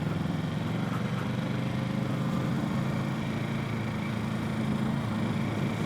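Kawasaki Z650's parallel-twin engine running steadily at even revs, picked up by a helmet-mounted recorder.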